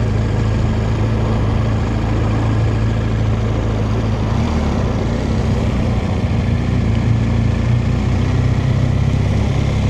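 BMW R1200GS boxer-twin engine running steadily while riding at low road speed, with a steady hum and a rush of wind and road noise over it. The engine note shifts slightly about four seconds in.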